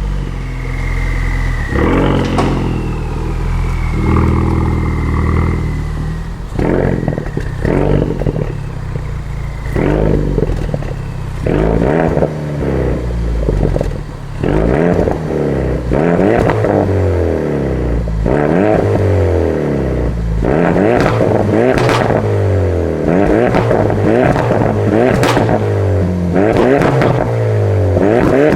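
Ford Focus RS Mk3's turbocharged 2.3-litre four-cylinder through an HG Motorsport EGO-X cat-back exhaust, deep and loud, running steadily at first and then revved over and over in short blips about once a second, with sharp pops and cracks as each rev falls.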